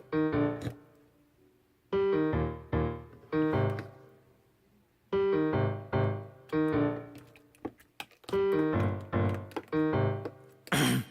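Piano playing groups of struck chords, a few chords at a time with short pauses between groups. Just before the end a brief noisy burst cuts in as the next part of the music begins.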